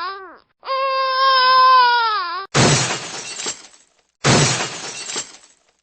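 Sound-effect clips: a baby's wailing cry held at a steady pitch and dropping at its end, then glass shattering twice, each crash sudden and fading over about a second.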